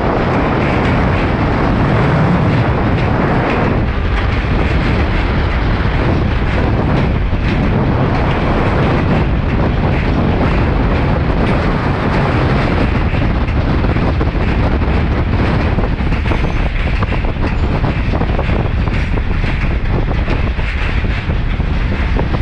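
Passenger train running steadily across the Pamban railway bridge, its wheels on the track girders giving a continuous clatter, mixed with wind buffeting the microphone.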